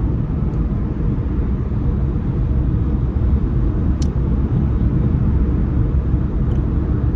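Steady low road and engine rumble heard inside a car's cabin while cruising on the highway.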